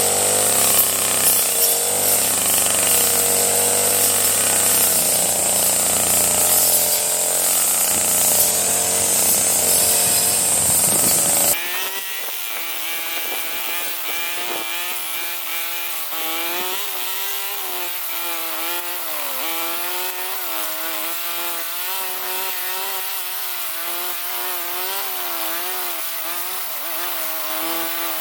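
Small petrol engine of a handheld power tool running, its pitch wavering up and down. About twelve seconds in, the sound changes abruptly and loses its deep low end.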